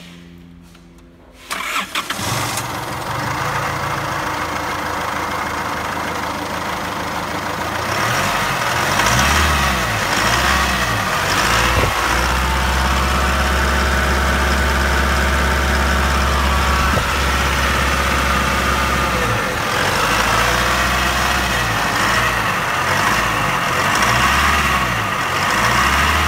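Holden Colorado engine cranking briefly and catching about a second and a half in, then idling. From about eight seconds in it is revved up and down several times, held at higher revs for several seconds midway, with more revs near the end.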